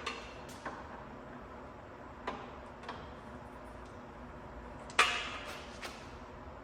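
A few scattered clicks and knocks from hands and tools working the exhaust loose under the car, with one sharp knock about five seconds in that rings briefly.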